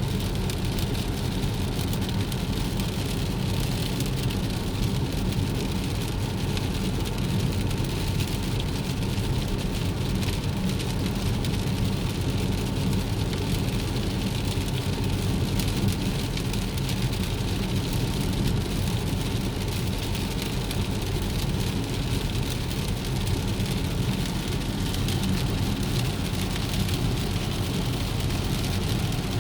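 Steady rain falling, a dense patter of drops over a steady low rumble.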